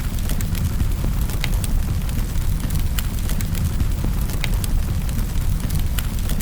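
Fire burning in a fireplace: scattered sharp crackles and pops over a steady low rumble of flame.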